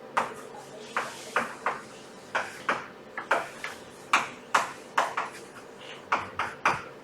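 Writing on a board: a quick, irregular run of sharp taps and clicks, about sixteen in seven seconds, each briefly ringing.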